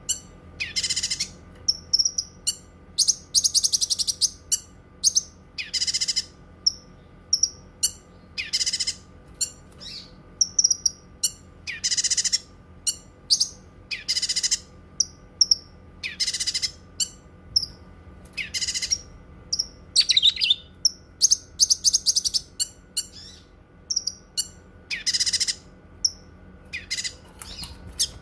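Cucak kinoi singing: loud, harsh high call bursts repeated every couple of seconds, with quick short chirps in between.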